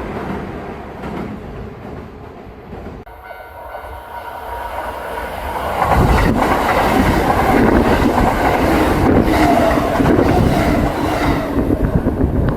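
Kintetsu electric train passing, its wheels clattering over the rail joints. The sound eases off over the first few seconds, then builds again and stays loud from about six seconds in.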